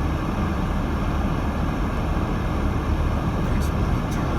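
Steady low rumble of a 2018 Subaru Crosstrek driving on a snowy road, heard inside the cabin: tyre and road noise with the engine underneath. A few faint ticks come near the end.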